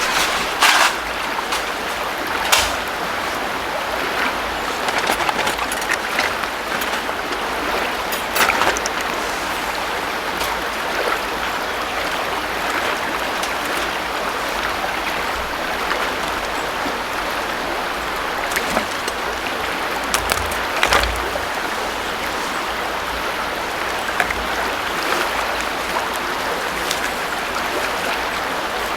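River water flowing steadily over stones, with a few short knocks and clicks, one with a low thump about 21 seconds in.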